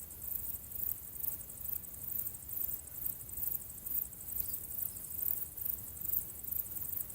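High-pitched chorus of chirping insects, pulsing evenly about twice a second, over a faint low rumble.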